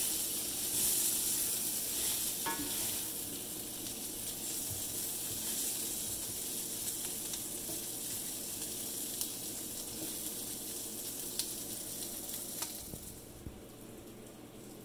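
Asparagus spears sizzling in hot oil in a cast-iron skillet, turned with a wooden spatula that scrapes and taps against the pan now and then. The sizzle dies away near the end.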